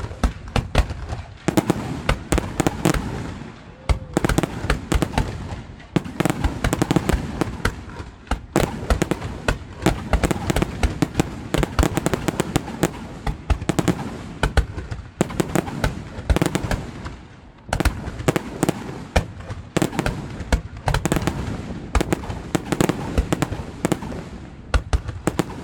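Fireworks display: a dense, near-continuous barrage of sharp bangs and crackles, several a second, with a few brief lulls.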